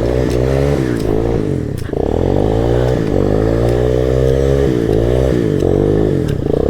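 ATV engine revving up and dropping back over and over, rising every second or two, as a four-wheeler sits stuck in a deep mud hole.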